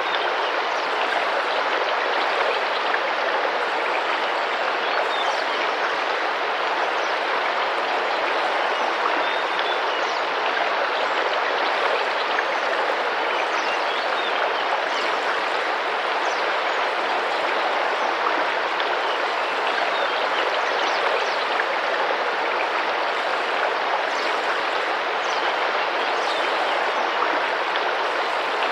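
River water flowing and splashing gently in a steady, unbroken rush.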